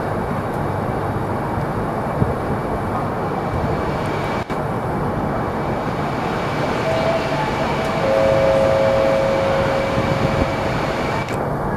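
Double-deck regional passenger train rolling into a station, a steady rumble of wheels on rail. A long, steady high-pitched tone lies over it for about three seconds near the end.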